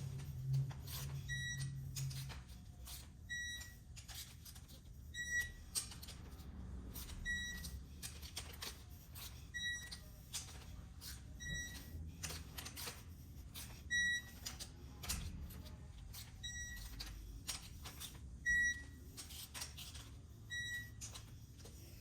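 A short, high electronic beep repeating about every two seconds, with scattered clicks and taps of metal work between the beeps.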